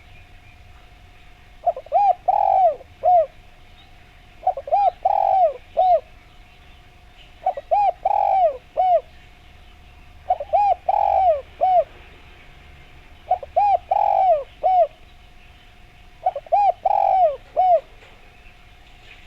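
Spotted dove (derkuku) cooing: six repeated coo phrases about three seconds apart, each a quick run of several notes, over a faint steady tone.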